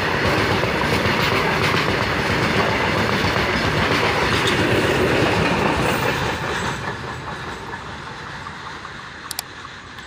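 Loaded freight train's wagon wheels rolling past close by in a loud, steady noise. The last wagon passes about six seconds in, and the sound then fades as the train draws away. A couple of short clicks sound near the end.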